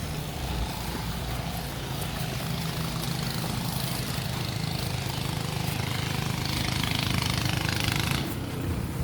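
A motor engine running steadily, with a rushing hiss over it that grows a little louder about seven seconds in.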